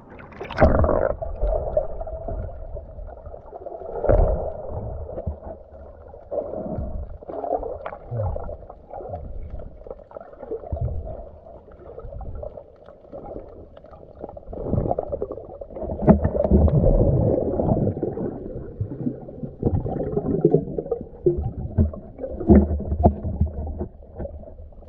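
Muffled water sloshing and gurgling with irregular swells and a few dull knocks, as when water splashes around the camera.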